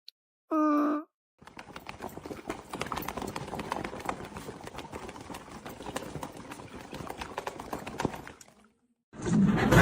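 A short pitched cry about half a second in, then a fast, irregular clatter of animal footsteps or claws on a hard surface for about seven seconds, stopping near the end.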